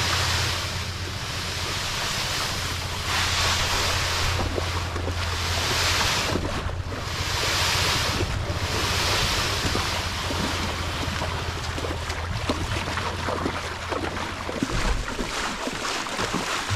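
Wind buffeting the microphone over rushing, splashing creek water, swelling and easing every second or two, with a steady low rumble underneath.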